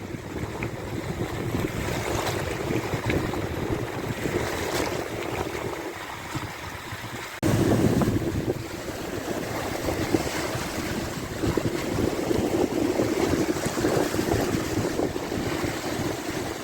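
Wind buffeting the microphone over the wash of sea waves on the shore below. The rumble steps up abruptly about halfway through and stays stronger.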